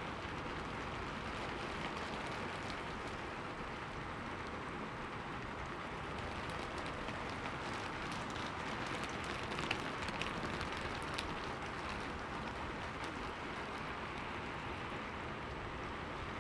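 Steady rain, with scattered drops tapping against a window pane and a few sharper taps about two-thirds of the way through.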